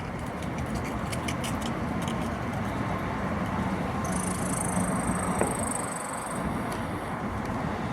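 Road traffic: a motor vehicle driving by, a steady rush of engine and tyre noise that swells about four to five seconds in, with a thin high whine over it for a couple of seconds.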